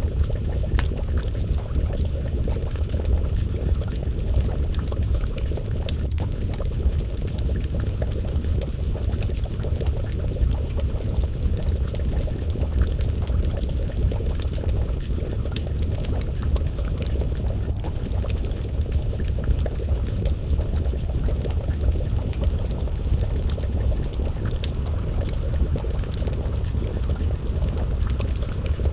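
Wood fire crackling, with scattered sharp pops over a steady low rumble, mixed with the bubbling of a pot of stew simmering over the flames.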